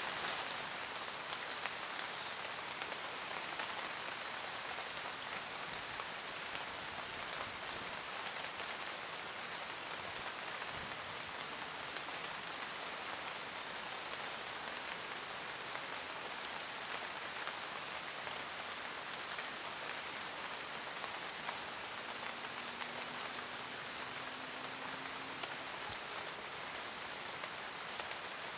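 Steady forest rain falling on leaves, an even hiss sprinkled with the ticks of single drops.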